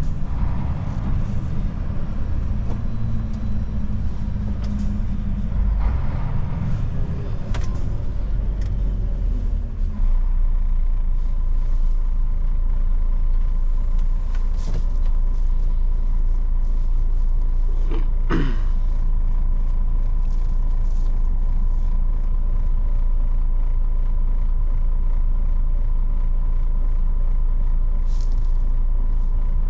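An old Mercedes truck's engine running on the move. Its note rises and falls over the first ten seconds, then settles into a steady, slightly louder low running with a faint steady whine. About eighteen seconds in there is a short falling whistle.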